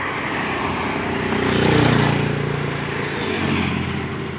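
A motor vehicle passing by: its engine sound swells to a peak about two seconds in, the pitch bending as it goes past, then fades away.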